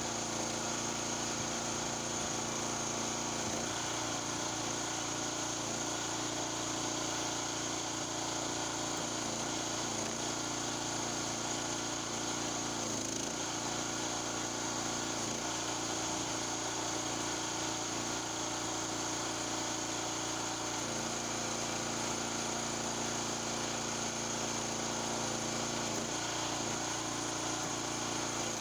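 Honda GX240 single-cylinder four-stroke engine running steadily, driving the hydraulic pump of a 30-ton log splitter; its note shifts a few times.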